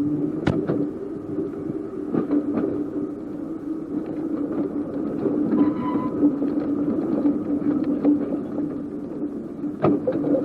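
Seaton Tramway narrow-gauge electric tram running along the line: a steady hum and rumble, with a few sharp clicks scattered through it.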